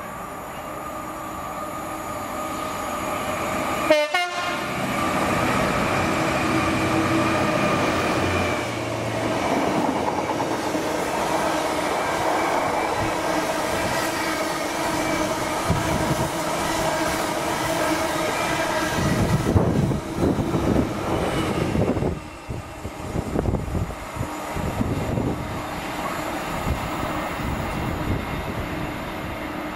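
Freightliner Class 66 diesel-electric locomotive running with its EMD two-stroke diesel engine, a steady tone with overtones rising as it draws close. Its train of empty flat wagons rattles and clatters over the rail joints as it passes, with irregular knocks near the end.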